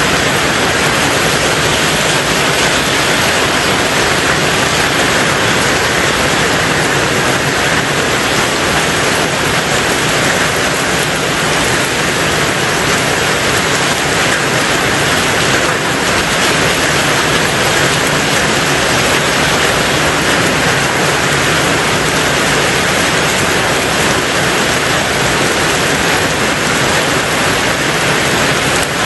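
Rain falling on a tin roof: a dense, steady hiss with no single drops standing out.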